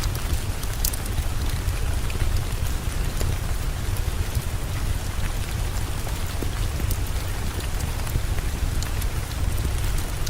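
Steady heavy rain with a deep low rumble underneath and scattered sharp ticks.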